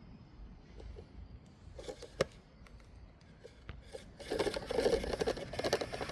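Rustling and scraping with scattered small clicks, one sharp click about two seconds in, becoming a dense, louder crackling rustle about four seconds in.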